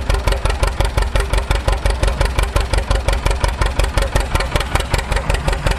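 Antique tractor engine running steadily with a fast, even beat, driving an old stationary hay press through a long flat belt.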